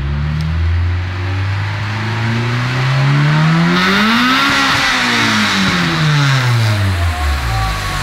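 Honda Integra's B20 VTEC four-cylinder heard at the exhaust, revving up steadily to a peak about four and a half seconds in and then falling back to idle. Just before the peak the note turns suddenly harder and brighter as VTEC engages.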